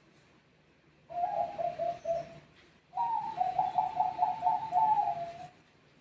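Zebra dove (perkutut) cooing in two phrases: a short coo about a second in, then a longer phrase of quick repeated notes that ends near the end.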